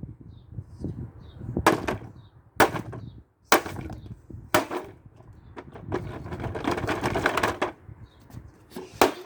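Hammer blows on a plastic kids' ride-on toy car: four sharp strikes about a second apart, then a couple of seconds of rough crunching and scraping as the plastic is broken, and one more strike near the end.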